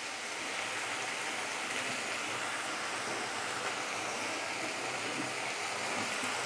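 Potato cubes and onion frying in hot oil in a steel kadai, with a steady, even sizzle.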